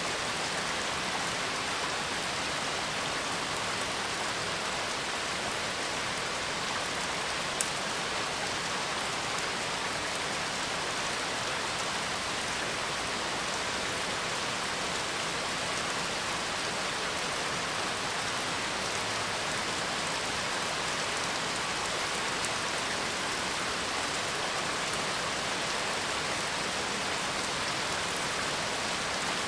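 Steady rain falling, an even constant hiss with no thunder. There is one brief faint click about a third of the way through.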